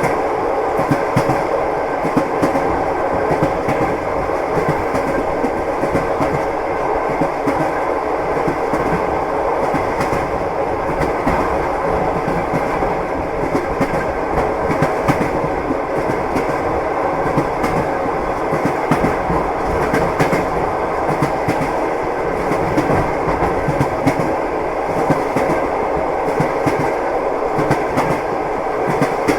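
Train wheels clacking over the rail joints, with a steady rolling rumble and frequent small clicks.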